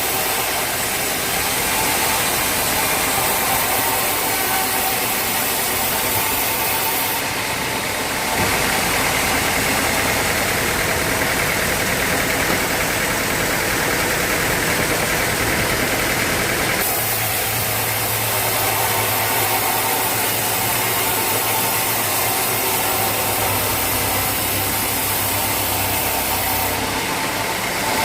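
Sawmill machinery running steadily with a motor-like drone. The sound changes abruptly about eight seconds in and again about seventeen seconds in.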